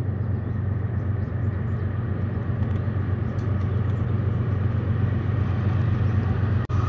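Steady low road-and-engine rumble of a vehicle driving, with a brief dropout near the end.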